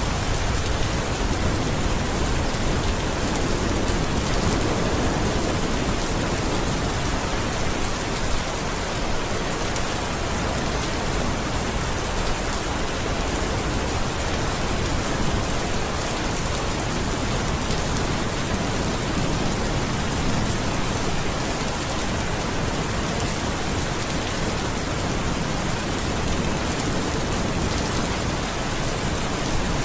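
Steady, heavy rain falling and pattering on surfaces, an even hiss with no change in intensity.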